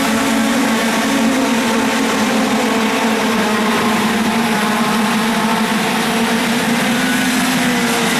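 IAME KA100 two-stroke kart engine running at high, steady revs on track, its pitch dipping slightly near the end.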